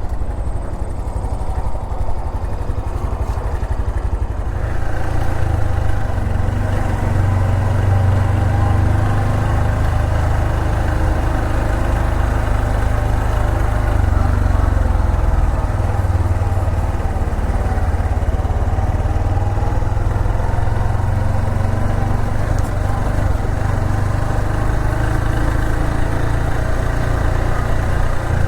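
Honda Super Cub 125's single-cylinder four-stroke engine and exhaust running. It gets louder about four seconds in, then rises and falls in pitch.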